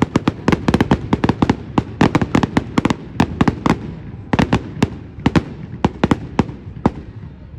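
Fireworks going off in a rapid, irregular string of sharp cracks and pops. They come thick and fast for the first three seconds or so, then in looser clusters.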